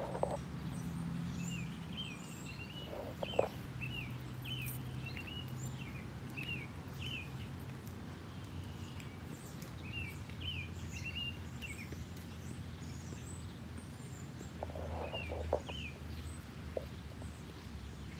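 Small birds chirping outdoors in runs of quick, short notes, over a steady low background rumble, with a few brief knocks.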